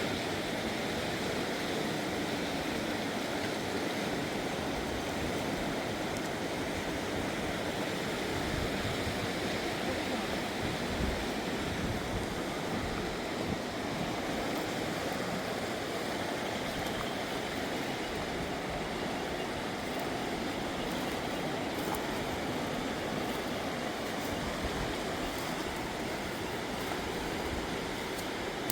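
Mountain river rushing by in a steady, even wash of water noise, with a few faint small knocks.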